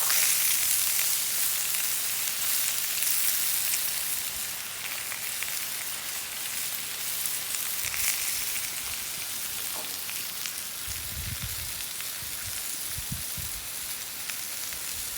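Beef sizzling in a cast iron pan, a steady hiss with fine crackles that eases a little over the first few seconds. A few dull knocks come near the end.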